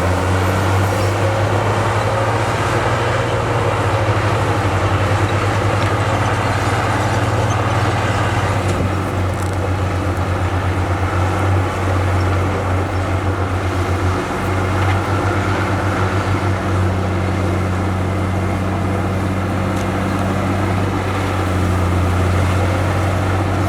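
Heavy diesel engine of earthmoving equipment running steadily, with a low throbbing that comes and goes through the middle.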